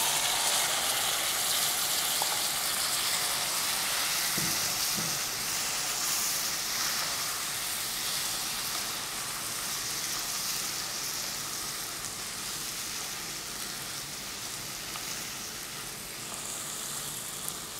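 Boiled chickpeas sizzling in hot ghee in a kadhai as they are stirred with a wooden spatula. The sizzle is loudest just after the wet chickpeas go in and slowly dies down.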